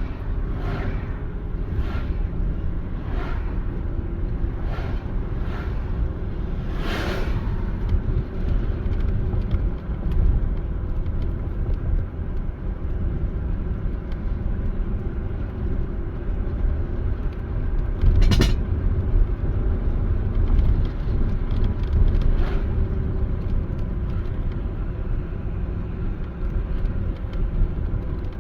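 Car driving, its engine and tyres making a steady low road rumble. There is a series of short thuds about every second in the first seven seconds, and one sharp knock about 18 seconds in.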